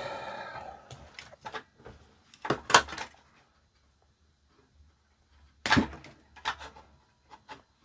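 A few sharp knocks and clicks of hard plastic and electronic parts being handled and set down on a workbench: one about two and a half seconds in, then a cluster near the end.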